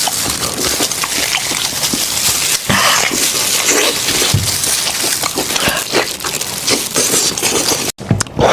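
Close-miked, wet eating sounds of meat being chewed off a goat's head: continuous smacking and slurping with many small clicks. The sound drops out briefly near the end.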